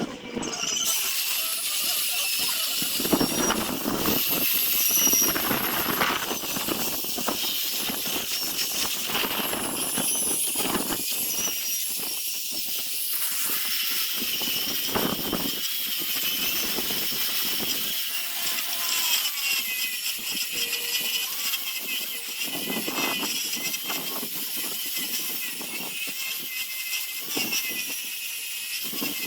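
Power sanding tool grinding and sanding a zelkova root, a steady high hissing whine that changes as the tool bears on the wood.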